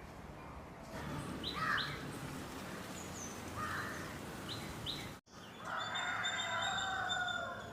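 Birds calling: short rising chirps, then a brief dropout about five seconds in, followed by a louder stretch of several overlapping calls.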